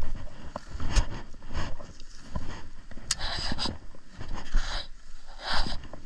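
Irregular footsteps through grass and brush, about one a second, with rustling and wind on the microphone.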